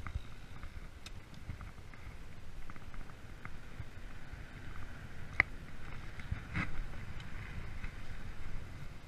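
Freeride mountain bike rolling over a forest trail: a low rumble of tyres and wind, with small rattles and clicks from the bike, a sharp click about five seconds in and a knock a second later.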